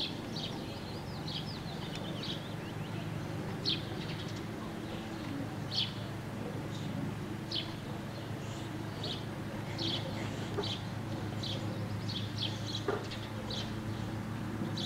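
Small birds chirping, short high chirps about once a second, over a steady low rumble.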